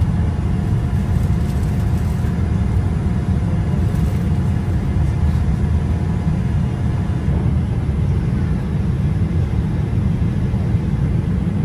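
Airliner cabin noise: jet engines and airflow giving a loud, steady low rumble with a faint steady whine above it.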